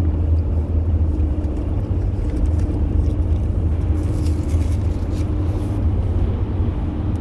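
Steady low rumble of road and engine noise inside a moving car's cabin, with a faint steady hum above it.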